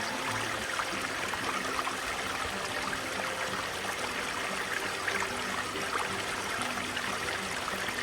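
Running stream water, a steady rushing hiss, with faint music of held low notes underneath.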